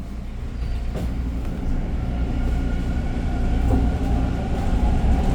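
TTC Line 2 subway train pulling into the station, its low rumble growing steadily louder, with a steady motor whine rising out of it about two seconds in.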